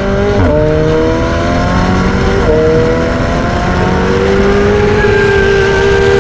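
McLaren 720S twin-turbo V8 with a Novitec exhaust accelerating hard. Its pitch climbs and drops sharply at upshifts about half a second and two and a half seconds in, then keeps pulling in a higher gear and holds nearly steady near the end.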